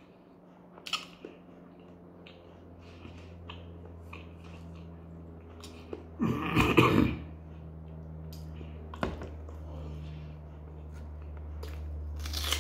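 A man chewing bread and meat with wet mouth clicks and small bites, and one brief, loud throat or mouth noise about six seconds in. A low steady hum grows louder in the background.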